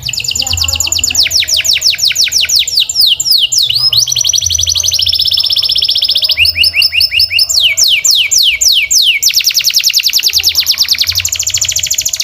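Domestic canary singing a continuous song of rapid trills, fast-repeated falling sweeps and steady buzzy rolls, switching to a new repeated phrase every second or two.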